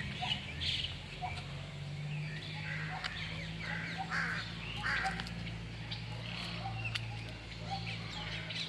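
Birds calling outdoors: short calls repeating every half second to a second, over a low steady hum.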